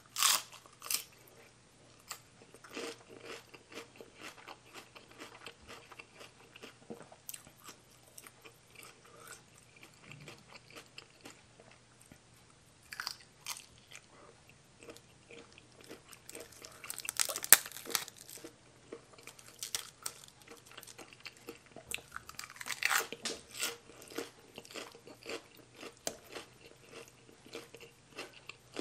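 Close-up chewing and crunching of food, mouth sounds of eating crisp raw vegetables. A loud crunchy bite into a raw green leaf comes right at the start, with further bursts of crunching in the middle and about two-thirds of the way through.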